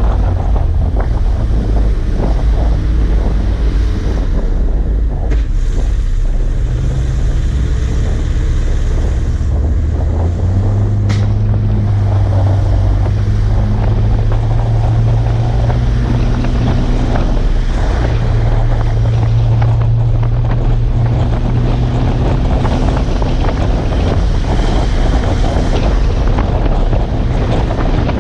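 Heavy International Paystar truck's engine running steadily under heavy wind noise on the microphone. The engine hum rises in pitch in steps about six and ten seconds in as the engine speeds up.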